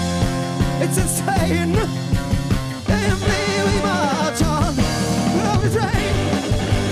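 Live rock band playing a psychedelic rock song with drums, bass and guitars, and a voice that may be singing over it.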